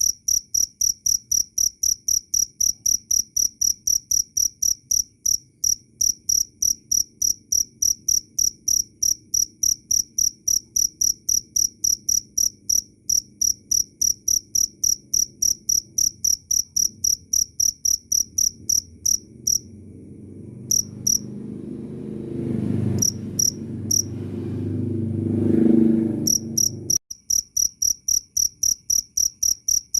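A cricket chirping loud and clear in a fast, even pulse of about three to four shrill chirps a second. About two-thirds of the way through, the chirping breaks off and a low rumbling noise swells. It cuts off suddenly, and the steady chirping resumes.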